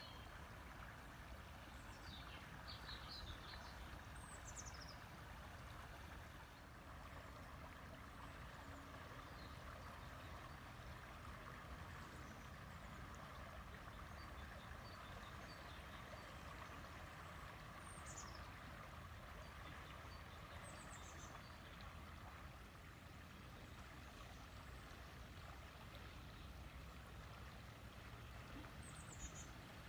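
River water flowing with a steady rushing sound, with a few short, high, falling bird chirps now and then.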